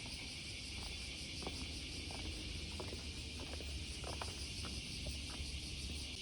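A steady, high, shrill insect drone, with a low rumble of wind underneath and a few faint, short tinkles scattered through it.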